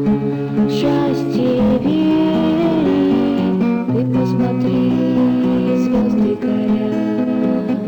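Guitar music: plucked and strummed guitar chords with sustained notes.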